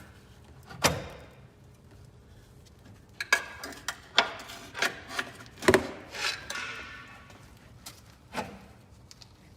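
Irregular sharp metallic clanks and knocks, about eight in all, some with a brief ring, from hand tools and parts being worked loose on a truck's underside. The hits are densest in the middle.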